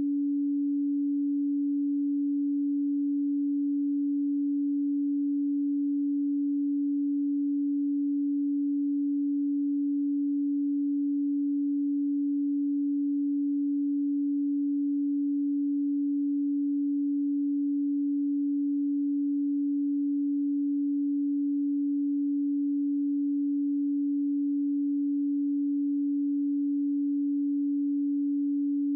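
Pure 285 Hz sine tone, one steady unwavering pitch with no other sound: a 'solfeggio frequency' test-tone style track.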